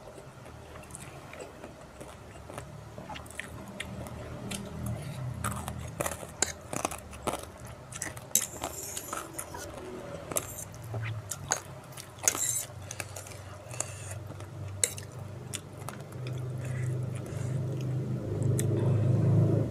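Close-miked mouth sounds of someone eating spicy instant fried noodles: chewing and biting with many short wet clicks and smacks. A low steady sound grows louder toward the end.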